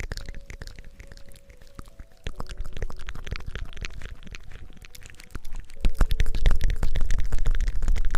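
Close-miked crackling and rubbing, an ASMR hair-washing or ear-cleaning sound made right at the microphone, growing louder with a low rumble from about six seconds in. Faint soft tones sit underneath.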